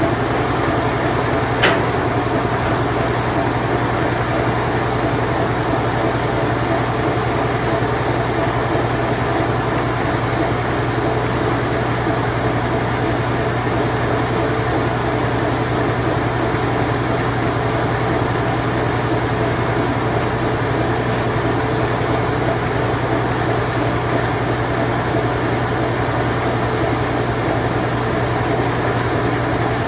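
Late-1980s Whirlpool Imperial Clean Touch washing machine running its spin cycle, with a steady low hum and an even whirring. There is one sharp click a little under two seconds in.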